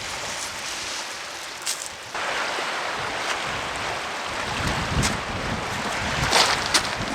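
Wind and surf noise that jumps louder about two seconds in, with gusts rumbling on the microphone in the second half and a few sharp clicks.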